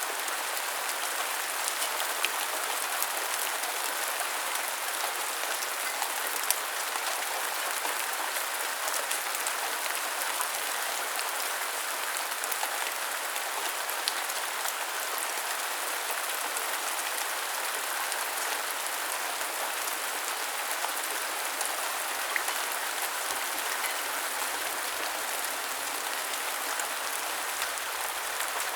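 Steady rain falling, an even hiss full of small drop ticks, with a few louder single drops standing out now and then.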